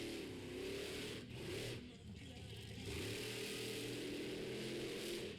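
Monster truck engine revving, climbing in pitch, dropping away about two seconds in, then picking up again and holding; the engine sounds terrible.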